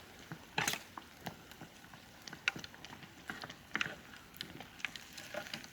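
Irregular sharp crackling pops, a few a second, over a faint hiss, from cooking over a campfire.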